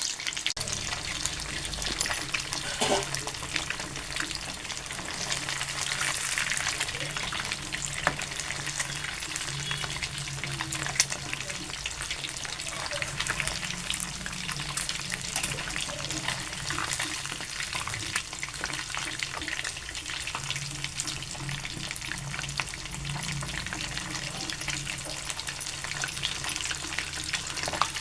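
Fish frying in hot oil: a steady sizzle with many small crackles, over a low hum.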